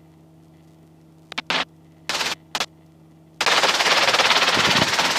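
Helicopter headset intercom keying open and shut in short bursts of rushing rotor and wind noise, over a faint steady hum. The longest and loudest burst comes about three and a half seconds in, as a wind gust hits the microphone.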